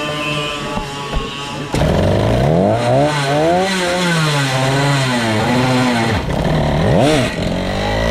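Go-kart's 135cc Sudam engine running on track, its pitch sweeping up and down as it accelerates and slows. About a second and a half in it suddenly gets louder. Near the end it drops briefly, then climbs sharply again.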